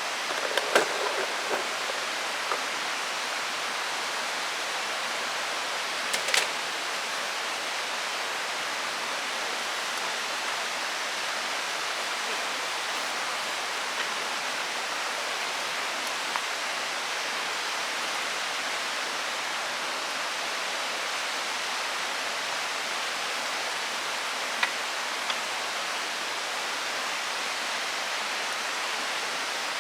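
Mountain stream of the Doshi River rushing steadily. A few short sharp clicks and knocks come over it, a cluster in the first second or two, one about six seconds in and one near 25 seconds.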